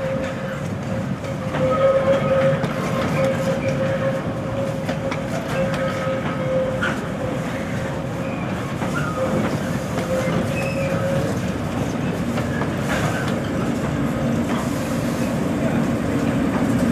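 A train running along the rails, with a steady whine that fades out about two-thirds of the way through and a few scattered clicks over the rumble.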